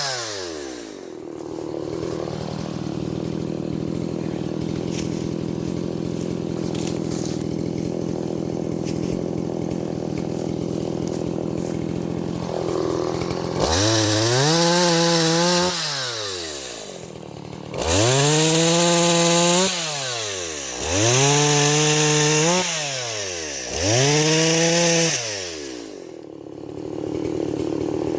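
Stihl MS170 small two-stroke chainsaw dropping to a steady idle, then opened up to full throttle four times about 3 s apart, each burst held about two seconds before falling back to idle.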